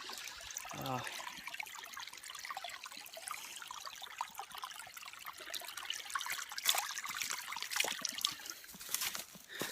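Water trickling steadily from a small hill spring, with a few short knocks in the second half.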